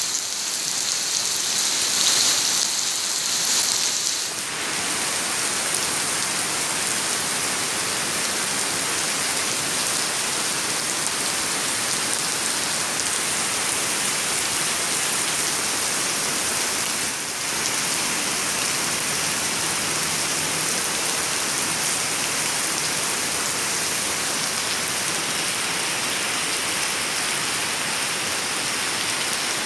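Steady rain falling, an even hiss. It is a little brighter for the first few seconds and briefly dips about halfway through.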